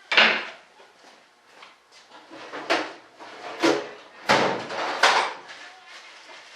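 About five sharp knocks and clatters of parts being handled and set down on a workbench, the first the loudest, with softer rustling and scraping between.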